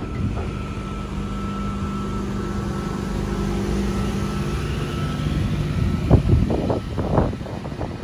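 Intercity V-set double-deck electric train pulling out and running past close by: a steady rumble and electric hum with a faint rising whine. About six seconds in comes a quick run of loud clacks from the wheels on the track.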